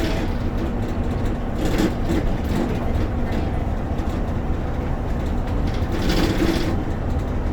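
Steady engine and road rumble of a bus in motion, heard from inside the passenger cabin.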